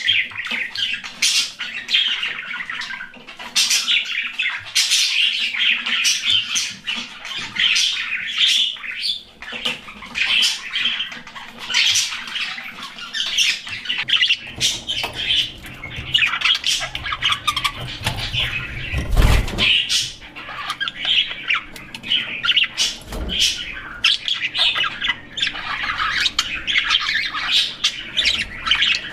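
Pet budgerigars chattering with rapid, continuous high chirps and squawks. A dull knock comes about two-thirds of the way through.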